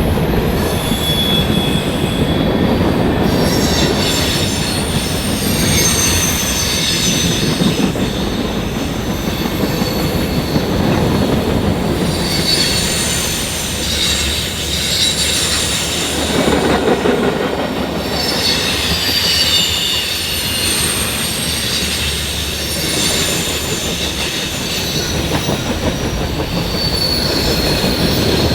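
Railroad cars rolling past, with steady rumble and wheels squealing in high, wavering tones that come and go.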